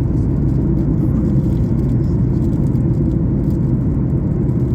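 Steady, deep cabin rumble inside a Boeing 737 MAX 8 climbing after take-off: engine and airflow noise, even and unbroken.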